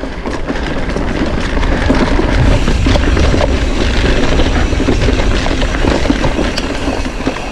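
Mountain bike ridden along a dirt forest trail: wind buffeting the bike-mounted microphone with a low rumble, mixed with tyre noise and frequent knocks and rattles from the bike over bumps.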